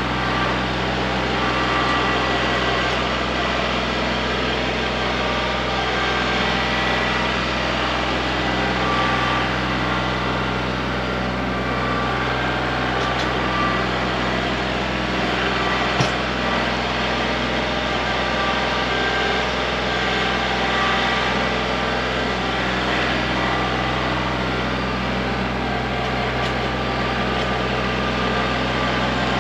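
Kubota L3901 tractor's three-cylinder diesel engine running steadily under work, with one sharp knock about halfway through.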